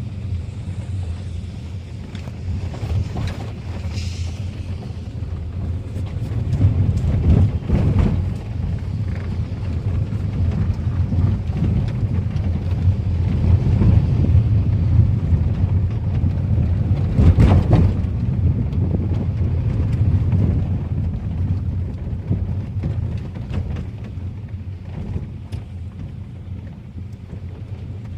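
Car running on the road: a steady low engine and road rumble with wind buffeting the microphone, swelling in the middle, with a sharp thump about 8 seconds in and another about 17 seconds in.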